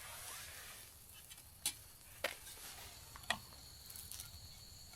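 A few sharp clicks and ticks of a utensil against a cooking pan, three of them standing out, over a faint sizzle of a pancake frying. A thin, high steady tone comes in a little after the third click.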